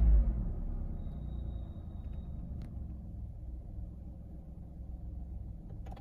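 Toyota Yaris 1.0-litre three-cylinder engine settling from its cold-start flare into a steady low idle, the sound dropping over the first second or two. A faint high beep sounds about a second in, and there are two sharp clicks, one past halfway and one near the end.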